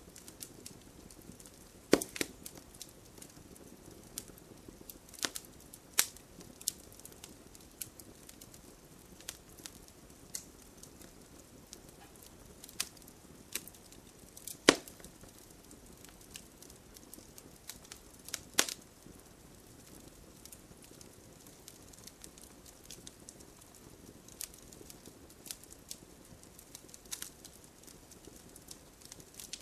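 Wood campfire burning with a soft steady rush and irregular crackles and sharp pops, the loudest pops about 2, 6, 15 and 19 seconds in.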